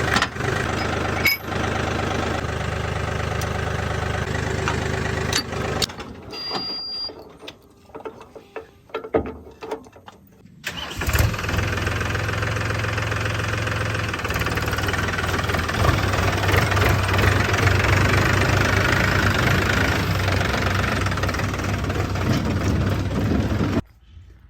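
Diesel engine of a tractor or backhoe loader running. The sound drops to a quieter, broken stretch for a few seconds, then comes back strongly about eleven seconds in, and cuts off suddenly near the end.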